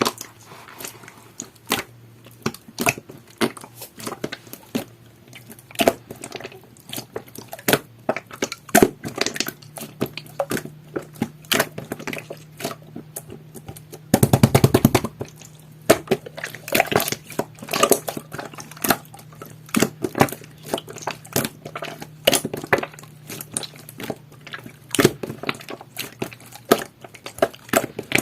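Jelly-textured slime being squeezed and pressed by hand, giving irregular sharp clicks and pops, with a dense run of crackling about fourteen seconds in.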